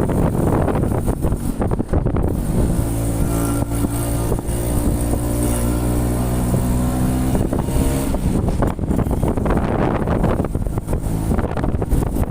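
Wind buffeting the microphone on a moving motorcycle. A steady engine drone comes up about two seconds in, holds with its pitch drifting slightly, and fades out around eight seconds in.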